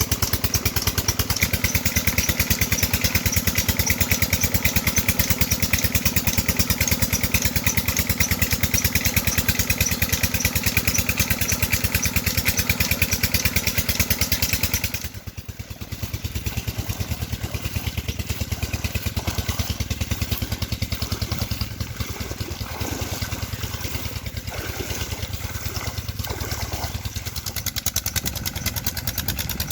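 Petter diesel engine running with a steady, rapid knocking beat. About halfway through the sound becomes quieter and duller, then carries on at the same beat.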